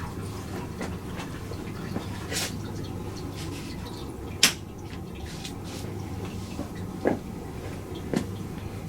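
Crockery and mugs being set into dishwasher racks: a few separate sharp knocks and clinks, the loudest about halfway through, over a steady low hum.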